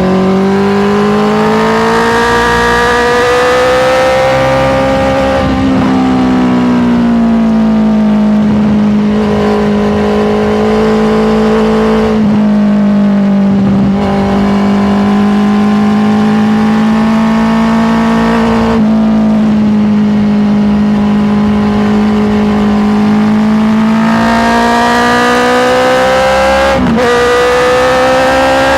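Honda CBR650R's inline-four engine running under way, its pitch holding fairly steady, slowly rising and falling, with a few sudden steps in pitch and a brief click near the end.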